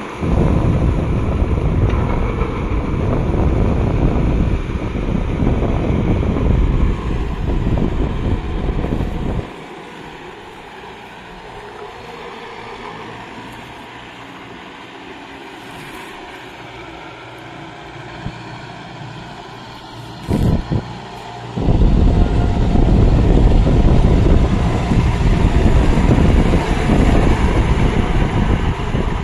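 Kubota MU5502 4WD tractor's diesel engine working in deep mud, heard as a loud low rumble. The rumble drops away sharply about ten seconds in and comes back loud after about twenty-two seconds.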